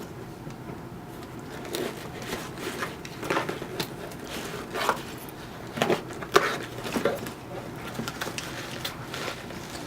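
Cardboard box sealed with packing tape being opened by hand: an irregular scatter of crackles, rips and scrapes of tape and cardboard.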